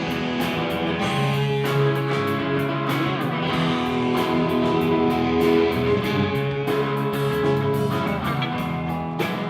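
Live rock band playing an instrumental passage between sung lines: guitars carry sustained chords over a steady beat.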